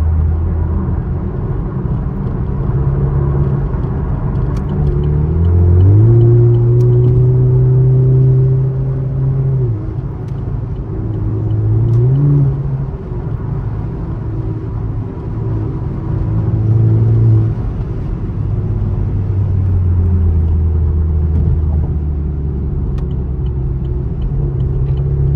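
Chevrolet Camaro engine running at highway speed over steady road noise. The engine note climbs under acceleration about five or six seconds in and holds, falls away near ten seconds, then climbs again shortly after.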